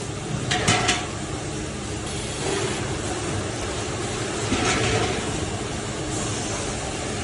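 Steady running noise of cylinder production-line machinery, with short metallic knocks just under a second in and again about five seconds in.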